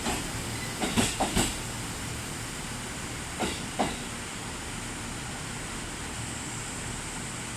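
JR Central 313 series electric train running through the station, its wheels clacking over rail joints in pairs of clicks twice, over a steady running hiss.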